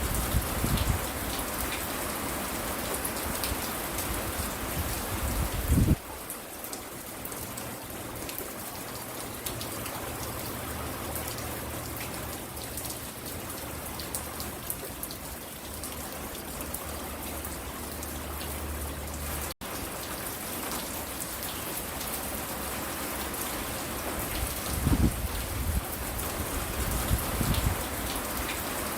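Steady rain falling and pattering on a porch, with low rumbling near the start and again near the end. The sound drops out for an instant about two-thirds of the way through.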